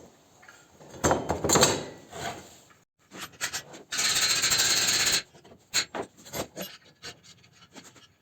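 Hand tools and metal parts scraping and rubbing as a pulley puller is set up on a stuck engine pulley, with a loud steady hiss lasting about a second from around four seconds in and scattered clicks and knocks after it.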